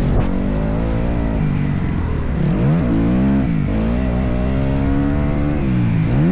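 Motocross bike engine running hard, its revs dropping sharply and climbing back twice.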